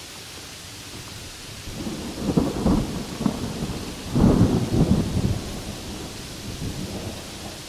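Steady rain hissing, with a roll of thunder rising about two seconds in. The thunder peaks twice, loudest around four to five seconds, then rumbles away before the end.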